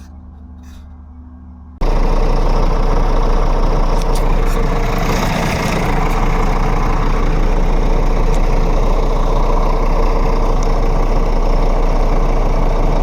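Scania truck's diesel engine idling steadily and loudly. It comes in suddenly about two seconds in, after a faint low hum.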